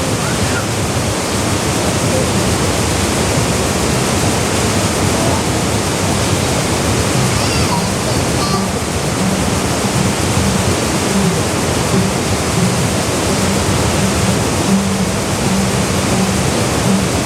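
Waterfall pouring into a gorge pool: a loud, steady, even rush of falling water.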